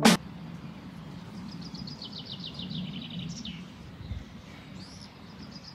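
Birds singing: runs of fast, evenly repeated high chirps about a second in and again near the end, with a single rising whistle about five seconds in, over a steady low background hum.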